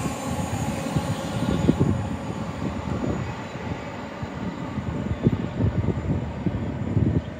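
Elizabeth Line Class 345 electric train drawing away, its hiss fading out over the first two seconds. Irregular low gusts of wind buffet the microphone throughout.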